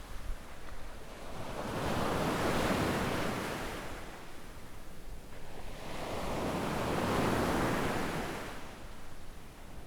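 Waves breaking and washing up on a sandy beach, surging twice about four to five seconds apart, with a low wind rumble on the microphone underneath.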